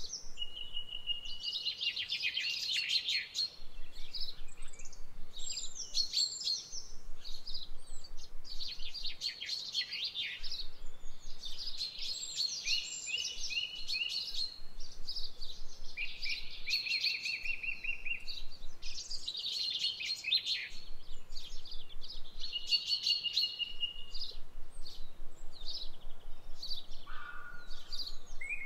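Birds singing: a repeated song phrase every two to three seconds, each a quick run of high notes, often ending in a short even trill, with a longer pause near the end.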